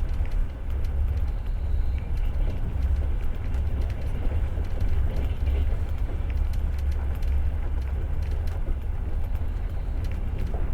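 Passenger train running at speed, heard from inside the carriage: a steady low rumble with many light, irregular clicks and rattles.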